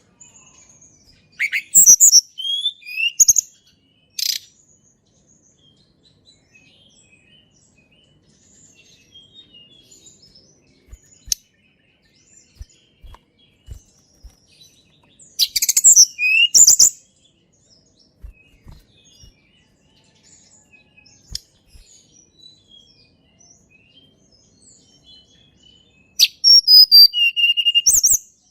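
Tledekan gunung (Sunda robin) singing: three short bursts of high whistled notes and trills, about a second in, mid-way, and near the end, with quiet gaps between them.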